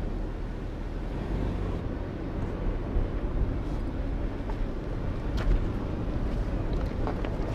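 2019 Ford Ranger pickup driving, a steady low rumble of engine and tyres, with a couple of faint clicks.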